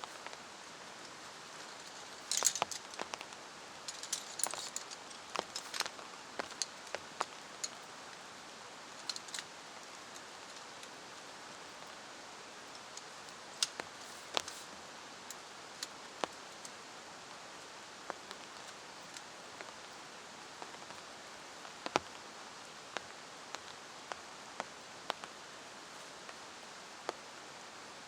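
Steady rain falling, with scattered sharp taps. A cluster of rustling and light clinks comes a few seconds in.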